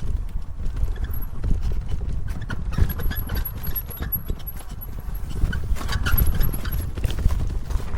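E-bike riding noise: wind rumbling on the microphone with irregular clattering knocks from the bike over rough ground. A faint high-pitched whine comes and goes twice in the middle.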